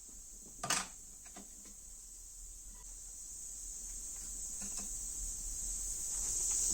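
A sharp metallic knock about a second in, then a few faint clicks, as parts of a Honda CB750 four-cylinder engine being dismantled are handled. A steady high-pitched hiss grows slowly louder underneath.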